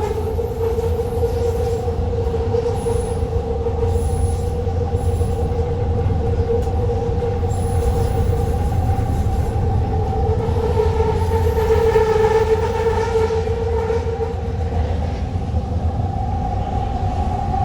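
Elevated rapid-transit train running along the track, heard from inside the car: a steady low rumble with a two-toned whine on top. The whine swells slightly about twelve seconds in.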